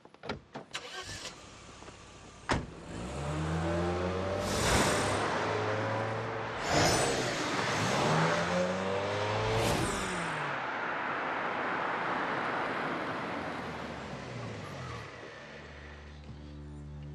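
A car is driven off hard. After a few clicks and a sharp knock, its engine revs up several times in a row, each time rising in pitch, with a loud whoosh, then settles to a steadier run that fades near the end.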